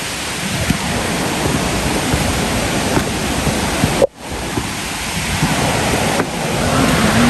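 Steady rushing roar of a waterfall. It breaks off for an instant about four seconds in, then carries on.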